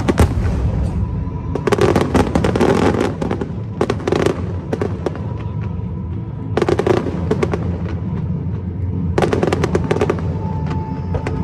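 Aerial fireworks going off, with four clusters of rapid crackling of about a second each over a steady low rumble.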